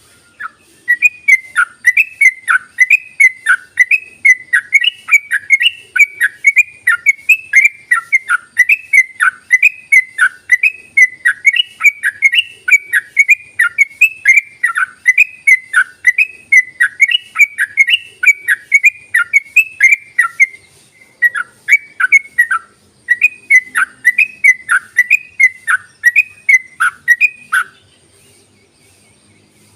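Yellow-vented bulbul (trucuk) singing its rapid continuous song: a fast run of short whistled notes, about three a second. The song breaks off briefly twice and stops near the end.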